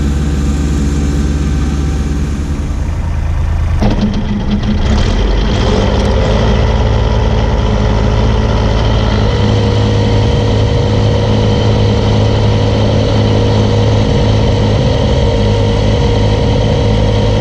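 Kubota B2601 compact tractor's three-cylinder diesel engine running steadily. About four seconds in there is a knock and the engine note changes, then it holds steady again under load.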